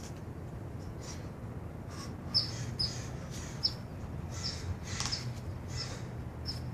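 A small bird chirping repeatedly: short, high chirps that drop in pitch, one every half second to a second, from about two seconds in, over a steady low hum.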